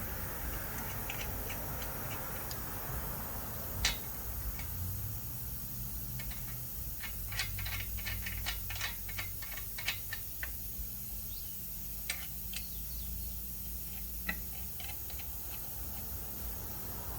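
Scattered light clicks and taps over a low steady hum, with a sharper knock about four seconds in and a quick run of clicks a few seconds later.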